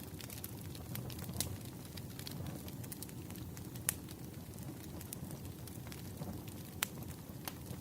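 Wood fire burning with a steady low rumble and irregular sharp pops and crackles, the loudest about 4 and 7 seconds in.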